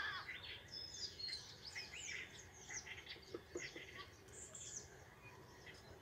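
Faint chirping of birds: many short, high calls that rise and fall, scattered throughout.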